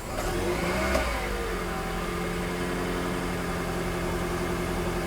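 A 2011 Toyota Prius's 1.8-litre four-cylinder petrol engine revs briefly about a second in, then settles back to a steady run.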